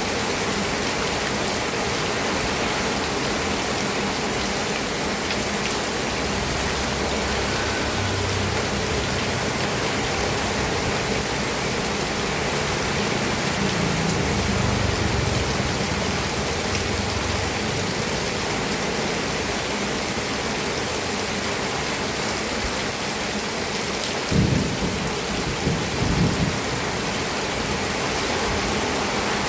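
Steady rain falling, an even hiss throughout. Low rumbles swell and fade a few times in the middle, and two short louder thumps come near the end.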